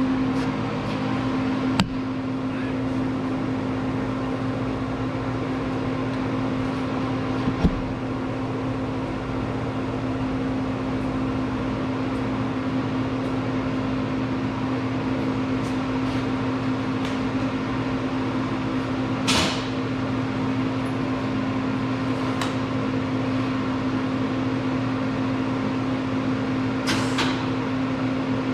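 Steady machine hum with a strong low tone, broken by two light clicks in the first few seconds and two short hissing bursts, one about two-thirds of the way through and one near the end.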